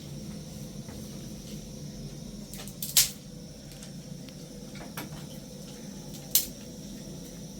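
Two short, sharp knocks about three and a half seconds apart, with a couple of fainter clicks between them, over a low steady hum.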